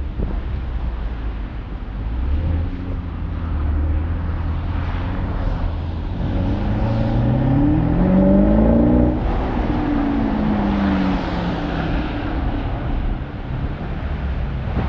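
Alpina XB7's twin-turbo V8 pulling under acceleration over a steady low rumble: the engine note climbs for about three seconds, then drops and falls away slowly.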